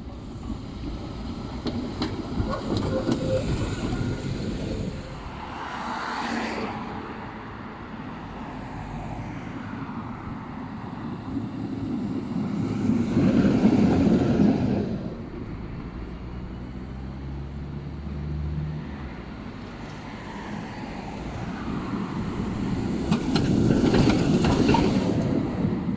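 Tram running on its rails, the rolling noise swelling and fading three times.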